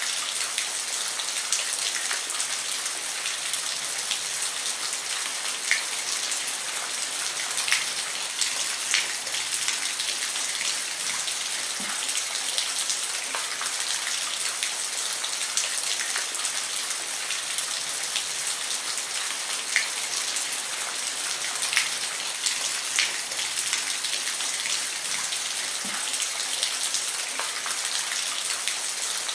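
Steady rain falling on a roof: an even hiss with many separate drops tapping sharply.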